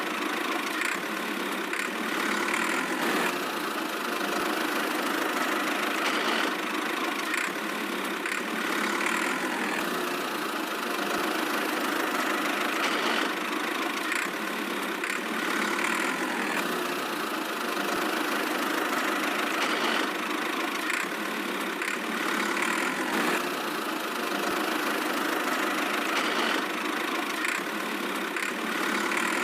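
Tractor engine idling steadily, a thin sound with no deep bass.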